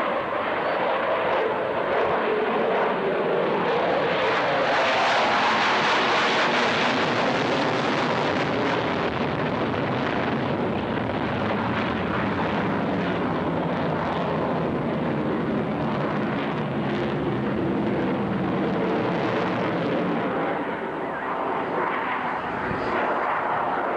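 Jet fighter's afterburning turbofan engine, an F-16 on display, heard as a loud continuous jet noise as the aircraft flies its routine, swelling loudest about five to eight seconds in and easing a little after.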